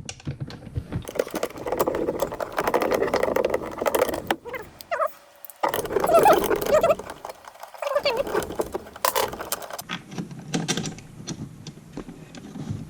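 Socket wrench with a short extension and 1/2-inch socket working a snowmobile chaincase cover bolt. Rapid clicking and metal clinks come in two denser runs, with scattered knocks between.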